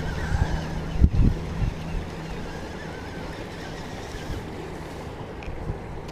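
Wind rumbling on the microphone, with a few louder low buffets about a second in before settling to a steady lower rumble.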